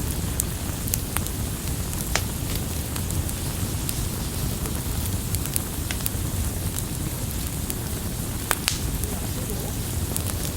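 Campfire burning: a steady low rush of the flames with sharp crackles and pops scattered throughout, one louder pop late on.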